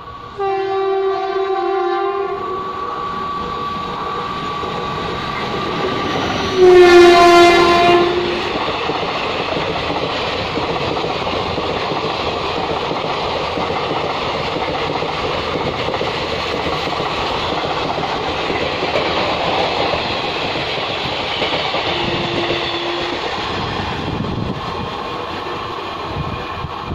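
Express train's locomotive horn sounding twice: a long blast at the start and a louder one about seven seconds in. Then the train passes at speed, its coaches making a steady rushing rattle and clatter over the rails that dies away near the end.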